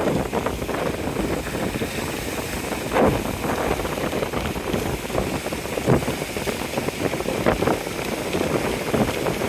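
Strong wind buffeting the microphone in gusts, over the steady wash of surf.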